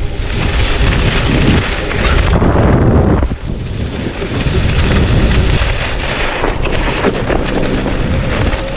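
Wind buffeting the microphone while riding an electric scooter across lake ice: a loud, rushing noise that dips briefly about three and a half seconds in.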